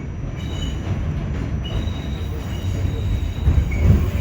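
R46 subway train running, a steady low rumble with high wheel squeal that comes and goes.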